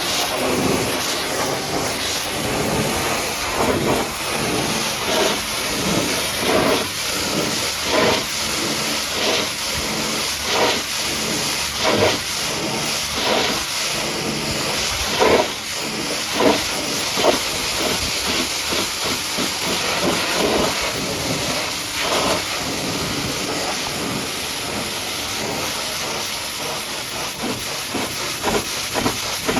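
High-pressure washer jet spraying against a truck's muddy bodywork: a steady loud hiss with irregular splattering surges as the jet sweeps over the surface.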